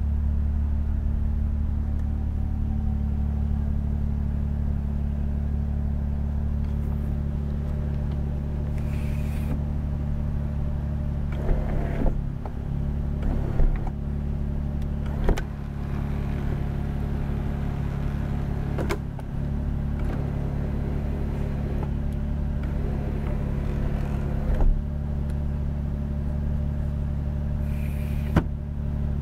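A Toyota Soarer's 1JZ-GTE 2.5-litre twin-turbo straight-six idling steadily, heard from inside the cabin as a low hum. Several short, sharp clicks come from interior switches being pressed.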